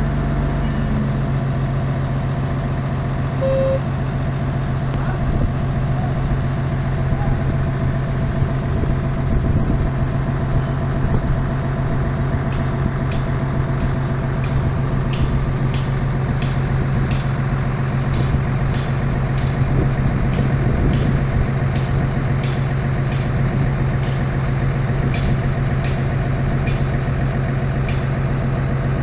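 An engine running steadily at idle with a constant low hum. From about twelve seconds in, light ticks come roughly twice a second over it.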